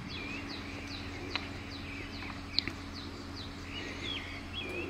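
Small birds calling: a quick run of short, high, downward chirps, with a few hooked calls among them. A steady low hum, like an engine running, sits underneath.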